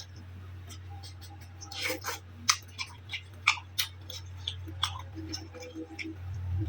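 Close-miked chewing and mouth smacks while eating noodles: irregular sharp, wet clicks over a steady low hum.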